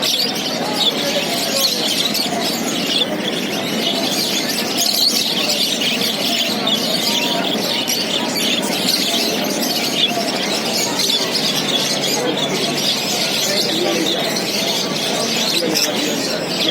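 A flock of budgerigars chattering and chirping without a break, many birds at once.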